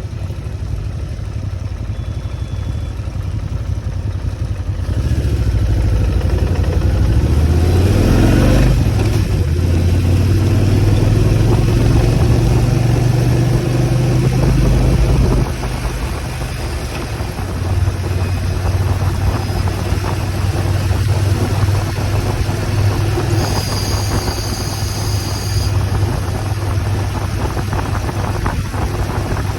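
Motorcycle engine running under way as the bike is ridden. The engine note rises as it speeds up about a quarter of the way in, holds, then eases off about halfway through. A brief high-pitched whine comes near the three-quarter mark.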